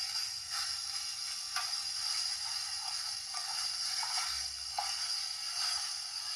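A capsule-toy sound gadget playing a recorded sound through its tiny speaker: thin and hissy with no bass, a steady noise with faint clicks, cutting off abruptly at the end.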